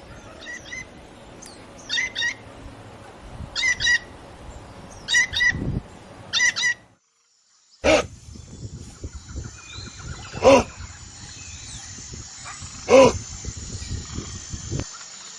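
Birds calling in short repeated phrases, then a gap of about a second, then a different animal giving two loud calls a couple of seconds apart.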